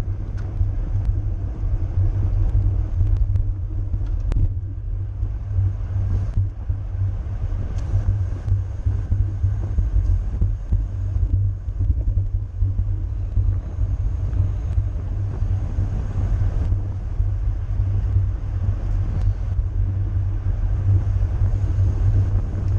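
Wind buffeting the microphone of a camera riding along on a racing bicycle, a steady low rumble with a few faint clicks.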